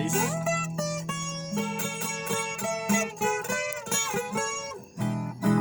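Acoustic guitar playing a picked instrumental passage of single melodic notes, the interlude between sung verses of a sertanejo-style song.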